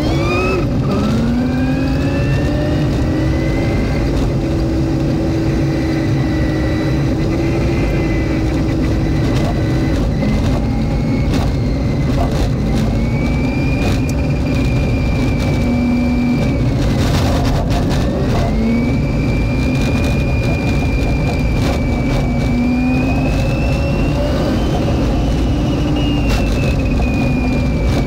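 1952 Willys Wagon driving under way, its engine and drivetrain running steadily with a whine whose pitch climbs as it picks up speed, dips twice and climbs again.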